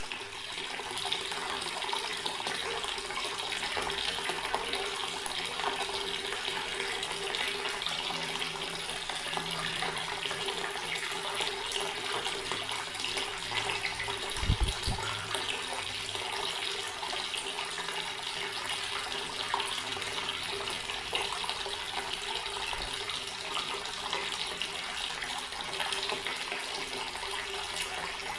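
Outdoor garden water tap running steadily, a continuous stream of water splashing down. About halfway through there is one short low thump.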